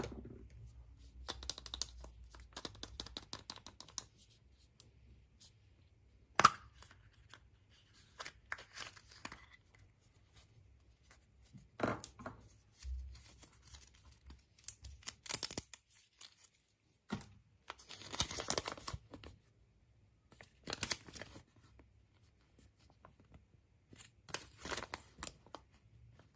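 Packaging being torn open and crinkled by hand, in short rustling bursts every second or two with a few sharp clicks and snaps between them.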